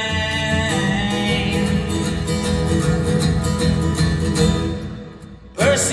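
Live country-rock band playing an instrumental passage with guitars after a sung line, the held vocal note fading out about half a second in. Near the end the sound drops away briefly for about half a second, then the music comes back in.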